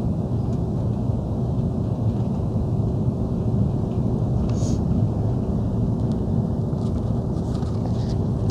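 Steady low rumble of an Airbus A330-300 heard from inside the passenger cabin: engine and airflow noise with a faint steady hum, and a brief faint click about halfway through.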